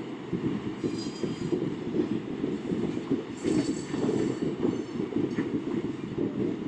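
Freight train of trash cars rolling across a railroad bridge: a steady rumble of wheels on rails, with faint high wheel squeals about a second in and again midway.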